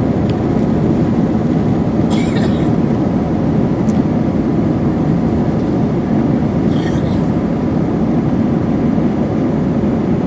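Steady engine and airflow noise inside the cabin of an Airbus A321-231 airliner with IAE V2500 engines, heard during the climb after takeoff. Two brief faint hisses come through, about two seconds in and about seven seconds in.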